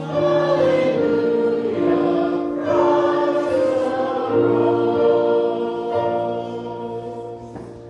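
Choir singing a slow sacred piece in long held chords, dying away near the end.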